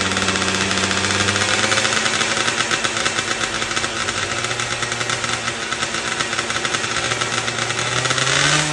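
Yamaha F1ZR two-stroke engine running through an aftermarket aluminium silencer exhaust, idling with a fast, even popping. Near the end the throttle is blipped and the pitch rises.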